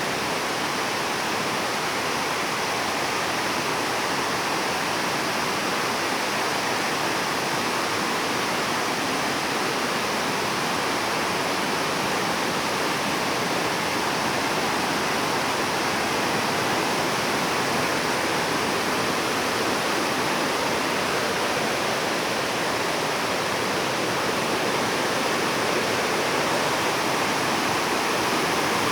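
Waterfall: water pouring and rushing in a steady, unbroken wash of noise.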